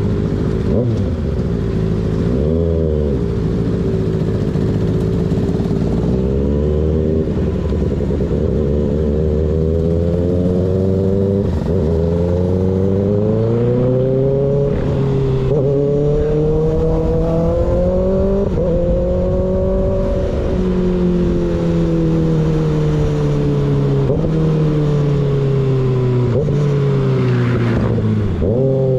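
Sport bike with an unbaffled M4 GP19 slip-on exhaust, riding hard. The engine note climbs under acceleration and drops sharply at several quick gear changes. In the middle it eases off and falls in pitch, then pulls up again.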